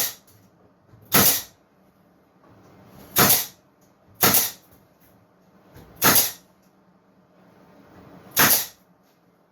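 Milwaukee M18 FUEL 18-gauge cordless brad nailer firing six times at uneven intervals of one to two seconds, driving brads into the carcass side panels.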